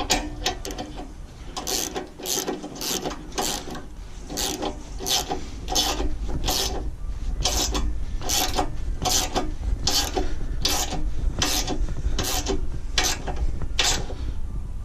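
Ratchet wrench tightening the nut on a loader bucket pivot bolt, clicking in short strokes about twice a second. The nut is drawing the pivot bushings together.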